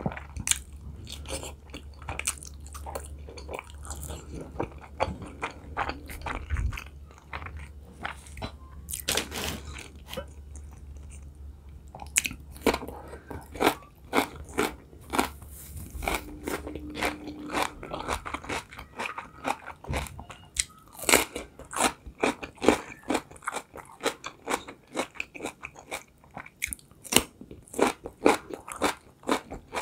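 Close-miked chewing and biting, with crisp crunches from fresh cucumber and wet mouth clicks from the soft dumpling. The crunches come more often and louder in the second half.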